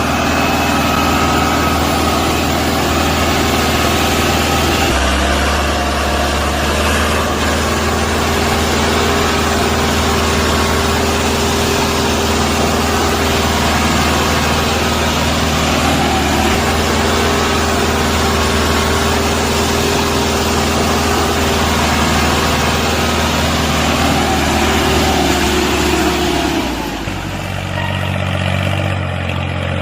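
An engine running steadily. Its note shifts about five seconds in, and near the end it changes and dips slightly in level.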